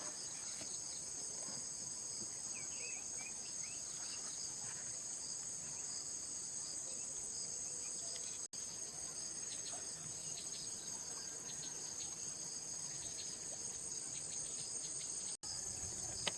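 A steady, high-pitched insect chorus, with faint scattered clicks and taps in the foreground.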